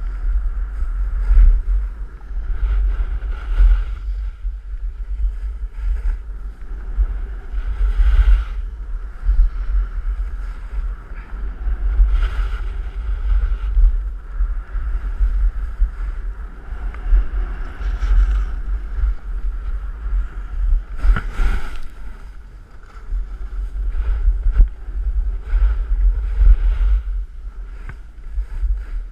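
Wind buffeting the microphone during a fast downhill run on a ski slope, with the hiss and scrape of edges on snow swelling and fading every second or two through the turns.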